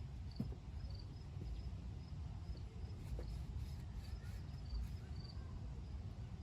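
Faint, short high chirps from a small bird, repeating irregularly about every half second over a steady low rumble, with a couple of light clicks.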